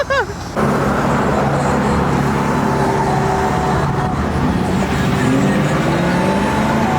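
Car engine running as a vehicle drives out of the lot, over traffic noise. Its pitch rises near the end as it speeds up.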